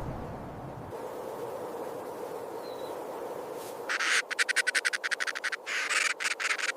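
A bird's rapid, dry rattling call: a quick train of clicks, about ten a second, starting about four seconds in, with a short break, and stopping near the end. A faint steady hum lies underneath.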